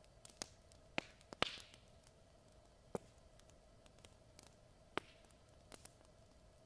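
Wood fire crackling: sharp pops and snaps at irregular intervals over a faint steady hiss, the loudest snap about a second and a half in, trailing a short hiss.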